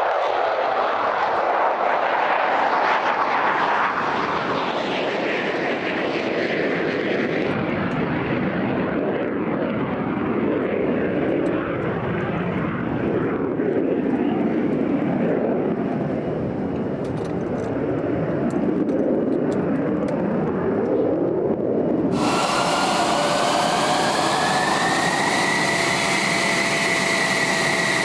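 F-16 fighter jet engine noise: a loud rushing sound whose pitch shifts and sweeps for the first twenty-odd seconds, as of a jet moving past. About 22 seconds in it cuts abruptly to a steady engine whine, with a high tone that rises a little and then holds.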